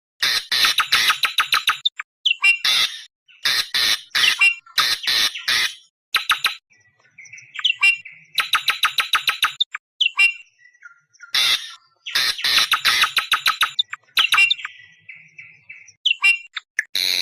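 Awar-awar bird lure call: harsh, screeching squawks in rapid runs of several notes, split by short pauses, with a few softer, thinner calls in between. This is the kind of call trappers play to attract wild awar-awar.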